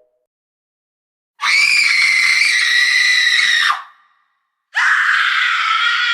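Two long, high-pitched screams: the first held for about two and a half seconds, the second starting near the end and wavering in pitch.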